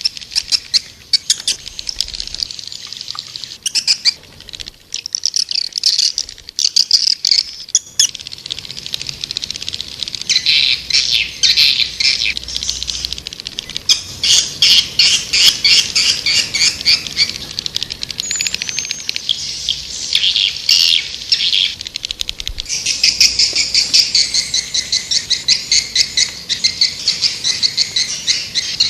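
White-nest (edible-nest) swiftlet calls: rapid chittering trills repeated in dense runs. It is a swiftlet call sound, the kind played to draw swiftlets to a nesting house.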